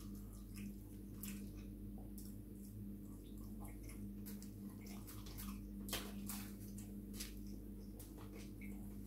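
Close, wet chewing and lip-smacking of a person eating chips, many small irregular smacks and clicks, over a steady low hum.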